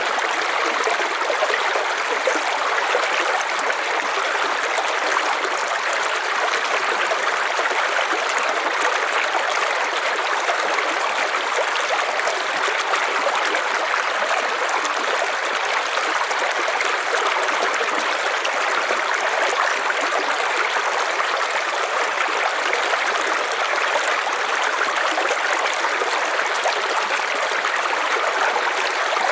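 River water flowing and rushing steadily over stones, a continuous even rush with no change.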